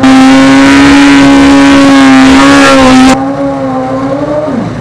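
Drag-racing motorcycle engines held at a steady high rev on the starting line, then a very loud burst of engine noise for about three seconds that cuts off abruptly. Near the end the steady engine note drops in pitch as the revs come down.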